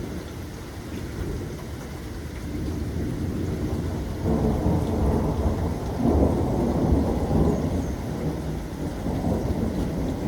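Thunder rumbling over steady rain; the rumble swells about four seconds in and is loudest around six to seven seconds.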